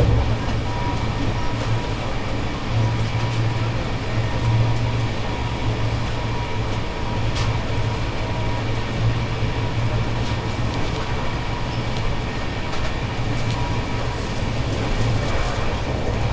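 Shatabdi Express passenger coach running on the line, heard from inside: a steady rumble of wheels on rail with an even rushing noise, a faint steady hum, and a few sharp clicks scattered through it.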